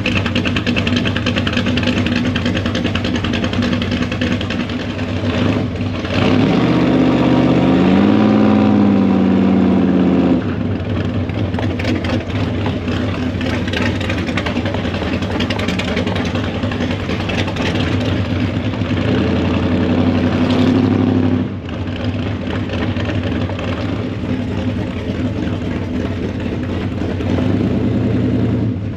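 Car engine running steadily, picking up revs and getting louder about six seconds in and dropping back abruptly about four seconds later, then pulling harder again for a couple of seconds around twenty seconds in.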